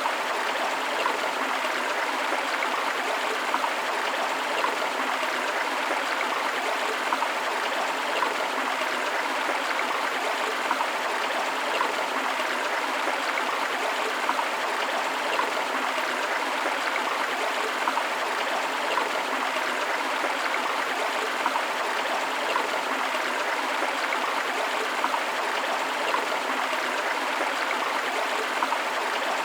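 Steady rushing of a forest river or stream, with small splashes and gurgles in the running water.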